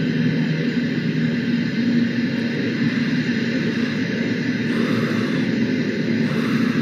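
Steady drone of aircraft engine noise: a low hum under an even hiss that holds level throughout.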